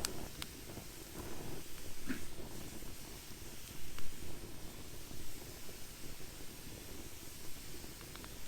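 Wood fire burning in a fire pit: a steady low rush of flames with scattered sharp crackles and pops.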